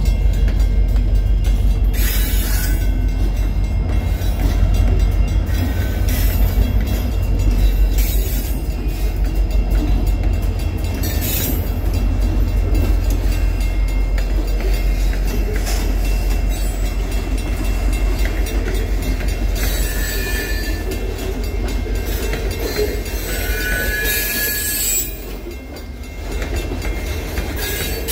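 QGRY grain train passing close at low speed: its diesel locomotive's engine runs with a heavy, steady rumble while the wheels roll along the rails, with a few brief high wheel squeals about two-thirds of the way in.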